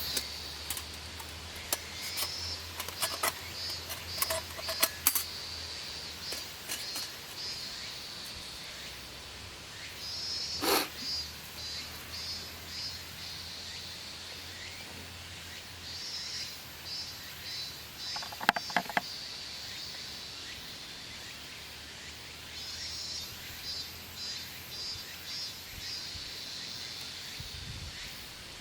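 Outdoor ambience with birds calling in short repeated trilled phrases, broken by a few scattered sharp clicks and snaps.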